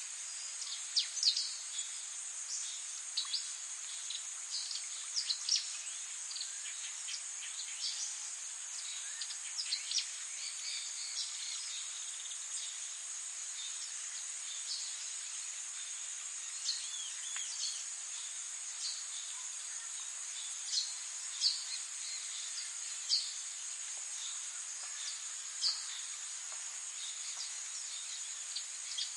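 Many small birds giving short, high chirps over a steady high-pitched insect trill, most likely bush crickets or grasshoppers. The chirps come thickly in the first half and more sparsely later.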